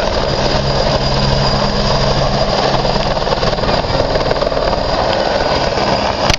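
Helicopter running: a loud, steady drone with an even low hum that hardly changes. A brief sharp click comes near the end.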